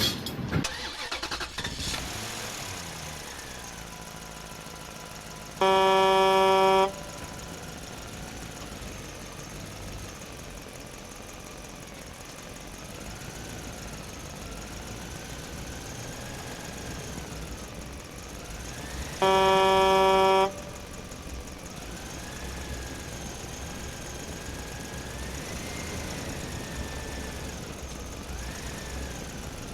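Truck engine running steadily, with two loud horn blasts, each about a second long, about 14 seconds apart.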